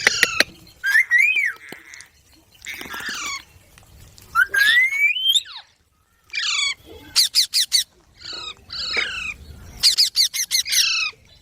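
Baby green parrot squawking and chirping in a string of short, harsh calls, with one long rising whistle about halfway through and quick runs of clicking chirps near the middle and end.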